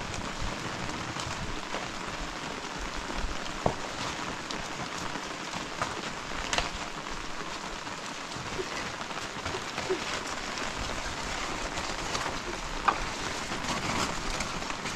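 Steady rain falling, with a few sharp taps of drops or drips standing out above the patter.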